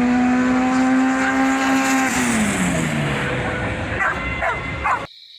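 A car engine held at steady high revs, then its pitch falls away as the revs drop off. A few sharp clicks follow, and the sound cuts off abruptly near the end.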